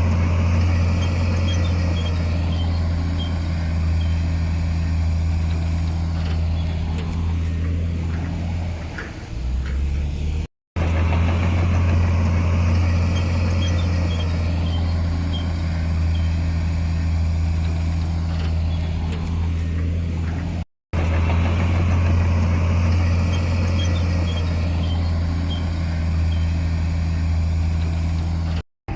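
Heavy diesel engine of earthmoving machinery running steadily with a deep, even drone. The sound cuts out briefly three times, about every ten seconds.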